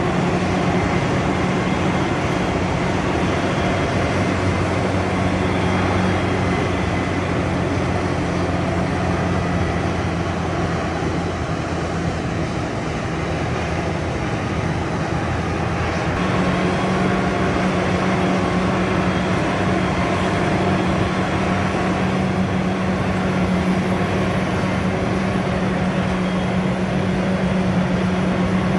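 Heavy farm machinery engine running under steady load, a constant diesel drone with a strong low hum that eases slightly midway and then comes back.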